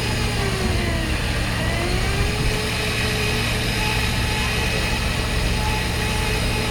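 A boat's engine running steadily with a constant low hum, its pitch drifting up and down a little.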